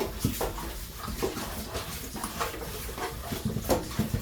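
Raw chicken pieces being handled and worked with seasoning: irregular wet squishing and light knocks.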